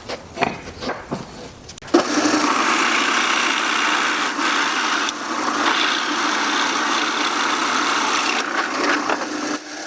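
A few light knocks of wood being handled, then a power tool starts working wood about two seconds in and runs steadily with a low motor hum under the cutting noise, stopping just before the end.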